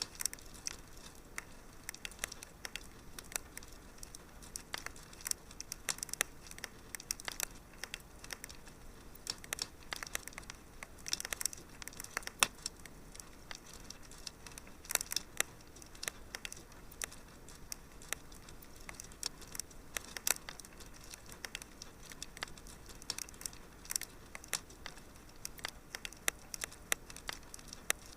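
Wood fire crackling: irregular sharp pops and snaps of burning logs, some louder than others, over a soft steady hiss.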